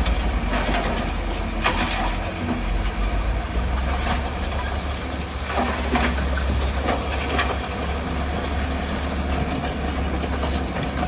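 Heavy diesel earthmoving machinery running with a steady low hum, with metallic clanks and squeals now and then.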